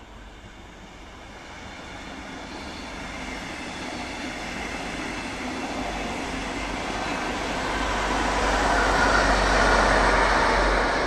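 Double-deck push-pull train passing, propelled by a DB class 218 diesel-hydraulic locomotive at the rear. Wheel and rail noise grows steadily as the cab car and coaches approach. It peaks near the end, when the locomotive goes by and its deep diesel engine rumble joins in.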